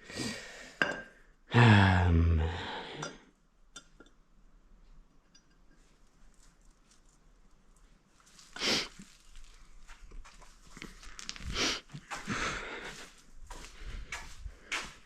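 Metal tools and parts clinking and knocking in scattered, irregular strikes during work on an ATV, with a short strained vocal sound near the start.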